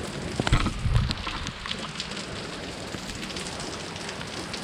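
Heavy rain pouring down, a steady hiss of rain hitting the ground, with a few knocks in the first second.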